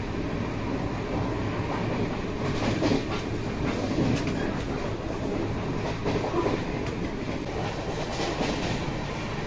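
Shatabdi Express passenger coach running at speed, heard from inside the coach: a steady rumble of wheels on rails with clickety-clack clicks from the rail joints, clustering about two and a half seconds in and again near the end.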